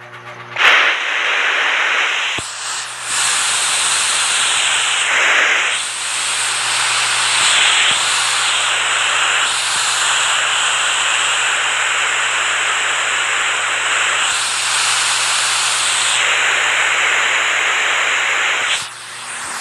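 Water rushing and spraying with a steady hiss, starting abruptly about a second in and dropping away near the end.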